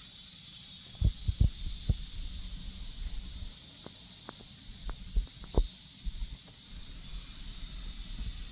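Cicadas buzzing in a high, steady drone, pulsing at first and then even. Several low thumps come about a second in and again around five seconds in.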